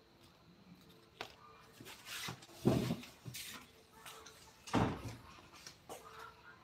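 Irregular knocks and clunks in a small room, with short scraping noises between them; two louder clunks come about two and a half and five seconds in.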